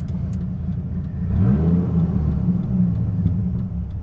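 Dodge Viper GTS's 8.0-litre V10 accelerating on the exhaust: the engine note climbs quickly about a second in, holds, then eases off, heard from inside the moving car.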